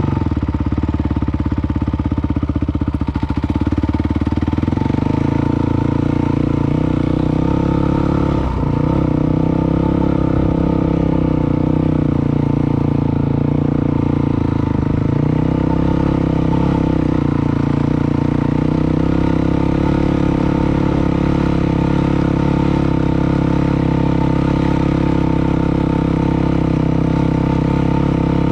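Dirt bike engine running loud and mostly steady, with a brief dip and recovery in pitch about eight and a half seconds in.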